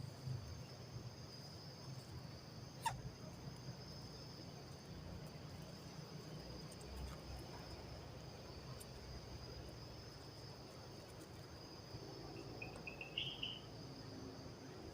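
Steady high-pitched insect chorus, with one sharp knock about three seconds in and a short rising chirp near the end.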